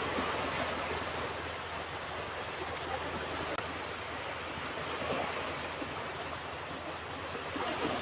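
Ocean surf washing onto a beach: a steady rushing wash with no single wave breaking out clearly above the rest.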